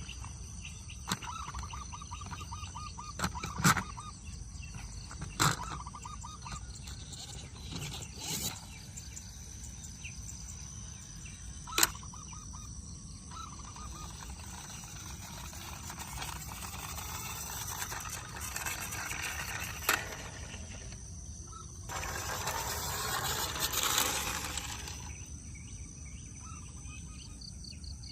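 Scattered sharp clicks and knocks over a low steady hum, with a few short chirping trills and a few seconds of rustling noise late on.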